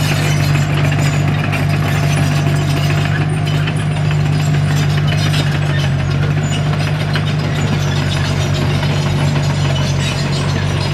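Komatsu D21P crawler bulldozer's diesel engine running at a steady speed, with a mechanical clatter of tracks and moving parts over it.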